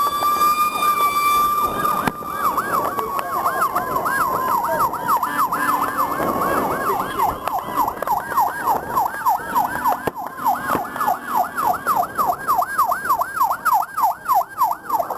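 Ambulance siren passing, a slow wail for about two seconds that then switches to a fast yelp, sweeping up and down about three times a second.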